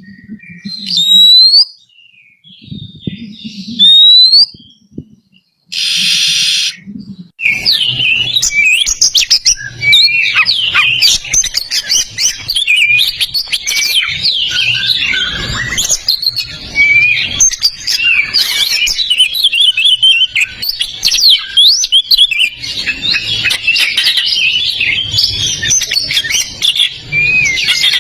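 Oriental magpie-robin (kacer) singing. A few separate rising whistles come first, then a short harsh buzzing note, and then from about a quarter of the way in a fast, continuous run of varied chirps, trills and whistles.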